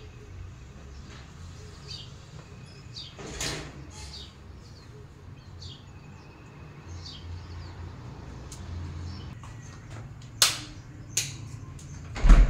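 Birds chirping at intervals over a low steady hum, with a few sharp knocks near the end, the last the loudest.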